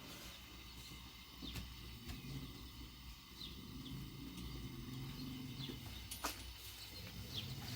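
Small birds giving short, scattered falling chirps over a steady low hum, with a few sharp clicks, the loudest about six seconds in.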